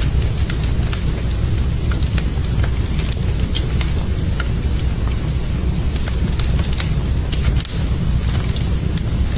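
Wood fire burning in a fireplace: a steady low rumble of flame with scattered sharp crackles and pops from the burning wood.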